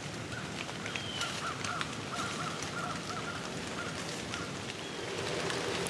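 Steady rain falling on the woods, with scattered raindrops ticking. A faint bird calls in a quick series about a second in.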